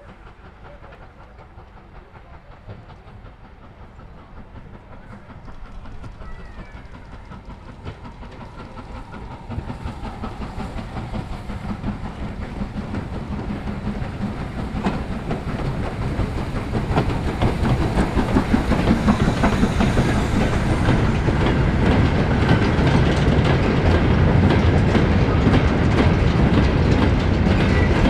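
A train approaching, growing steadily louder, its wheels clattering over the rail joints.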